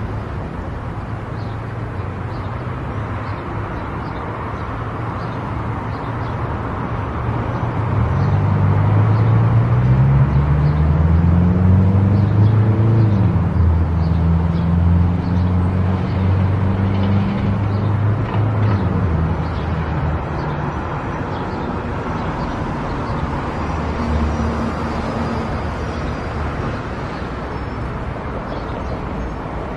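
Car driving on a road with steady tyre and road noise. From about a third of the way in, the engine grows louder and rises in pitch for around ten seconds as it accelerates, then eases back to a steady cruise.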